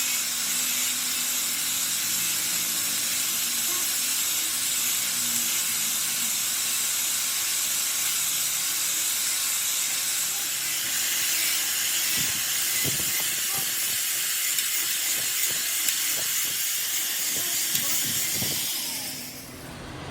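A steady, high hiss, like air or gas escaping under pressure, that cuts off sharply near the end, with a few faint clicks in the second half.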